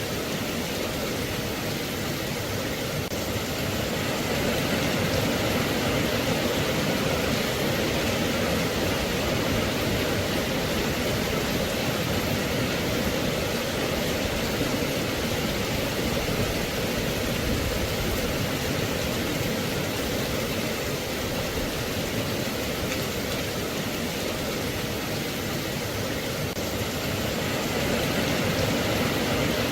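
Steady rain, an even hiss with no single sound standing out; it grows slightly louder about four seconds in.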